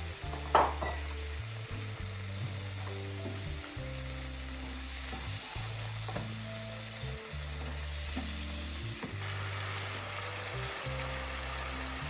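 Water spinach and seafood sizzling in a hot pan as they are stir-fried, with a sharp clink about half a second in. Soft background music plays underneath.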